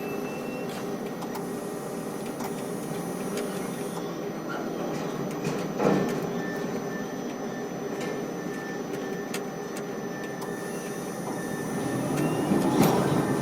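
Ship-to-shore quay crane machinery running steadily, a rolling mechanical rumble with faint steady tones, with a sharp clank about six seconds in and another near the end.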